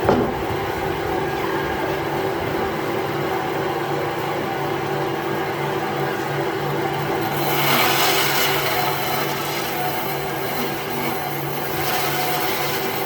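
A motor-driven tool working wood: a steady hum under a rough rubbing noise, which grows louder about halfway through and again near the end.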